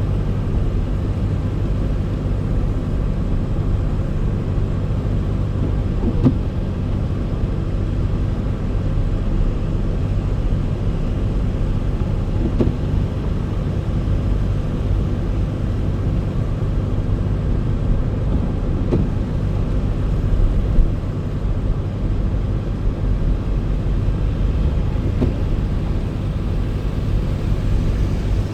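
Steady low rumble of a car driving, with faint short ticks about every six seconds.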